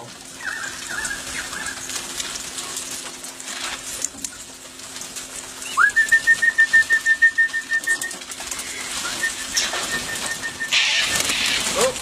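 A bird's high whistled call. About six seconds in it slides quickly up into a long steady note that pulses about six times a second for some two seconds, and a fainter stretch of the same note follows a little later.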